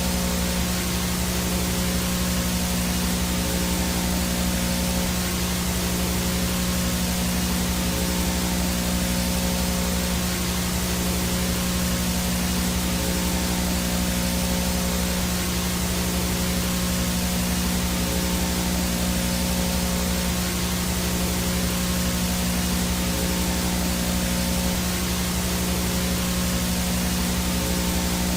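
Analog VHS static, the steady hiss of a no-signal tape or TV, with a low hum and a few faint steady tones under it.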